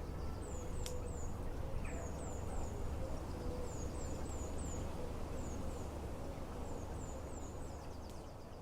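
Small songbird calling: short, high, down-slurred chirps, often in pairs, repeated every second or so, over a steady low background rumble.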